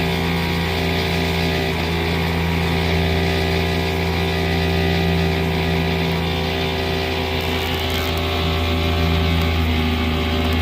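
Engine of construction equipment running steadily at a constant speed: a low, even drone with a stack of steady overtones.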